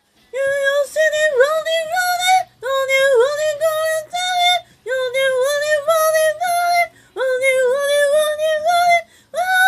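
A single high-pitched voice singing unaccompanied in short phrases of held notes, with brief breaths between them.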